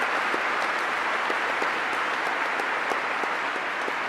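Large audience in a hall applauding steadily, a dense patter of many hands clapping that eases slightly near the end.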